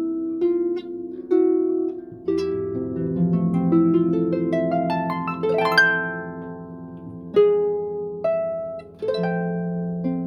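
Plucked-string instrumental music: notes struck and left to ring, with a quick rising run of notes in the middle and a few separate notes after it.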